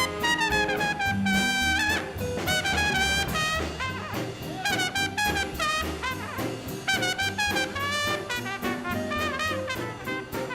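Swing band playing an instrumental chorus, horns carrying the melody over walking upright bass and drums.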